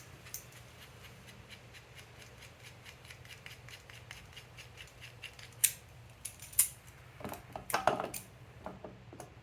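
Hand tools working on metal: a run of quick light clicks, two sharp clicks around the middle and a short clatter of clinks near the end, over a low steady hum.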